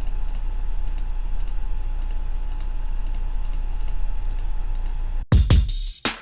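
Trap drum loop playing back through a low-pass filter: muffled, with a steady low bottom end and only faint, evenly spaced ticks from the hi-hats coming through. About five seconds in the filter is taken off and the drums hit loud and full.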